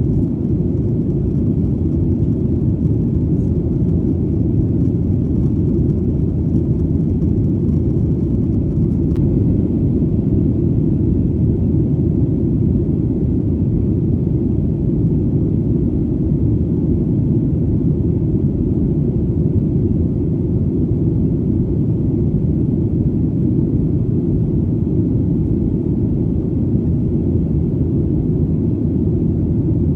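Steady, deep rumble of an airplane in flight, engine and airflow noise heard as one even drone with the energy low down and no changes.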